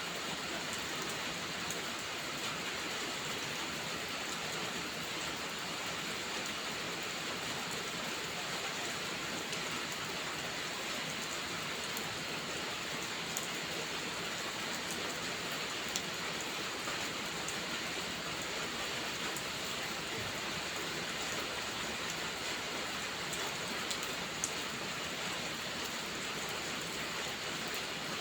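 Steady rain falling, with a few sharp ticks now and then.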